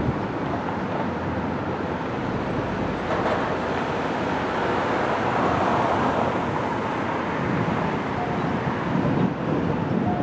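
Street traffic noise: a steady wash of road vehicles that swells a little about halfway through as a vehicle goes by.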